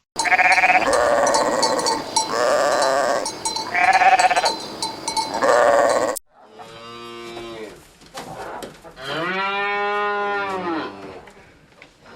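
Several sheep bleating over one another, with bells clanking among them. After a sudden cut about six seconds in, a quieter animal gives drawn-out calls, the longest one near the end rising and then falling in pitch.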